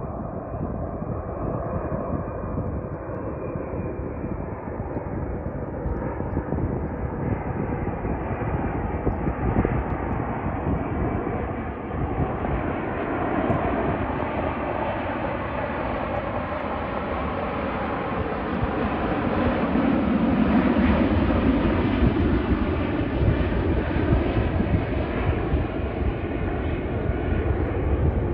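Jet airliner passing on its landing approach, the engine noise growing louder to a peak about two-thirds of the way through and then easing off a little.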